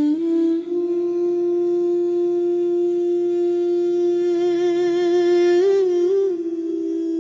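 A voice humming one long held note, wavering slightly about halfway through and making a small turn in pitch near the end before settling again.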